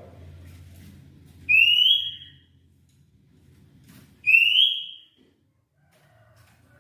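Oriental magpie-robin (kacer) giving a loud rising whistled note twice, about three seconds apart.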